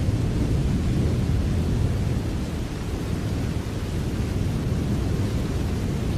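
Steady rain: an even, unbroken rush, deep and heavy rather than hissy, with no separate drops or claps standing out.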